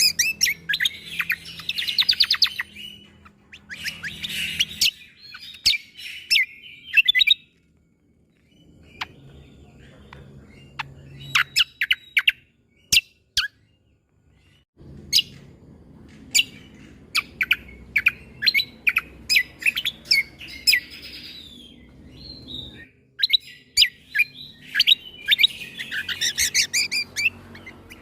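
Cucak kombo (kecial kombok) singing: bursts of fast chattering trills alternating with sharp, shot-like single notes, with a few short pauses between phrases.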